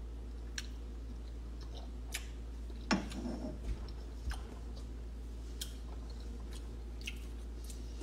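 A person chewing a mouthful of food, a mushroom tasted off a spoon, with scattered small clicks and a soft knock about three seconds in, over a steady low hum.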